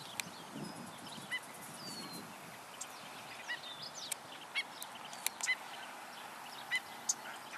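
Black-necked stilts calling: short, sharp yipping notes, faint and scattered singly and in pairs.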